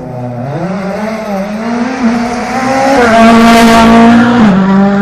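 Rally car engine at high revs, its note climbing and growing louder as the car comes on, with a rush of tyre noise when it is closest about three seconds in; the pitch drops slightly as it passes.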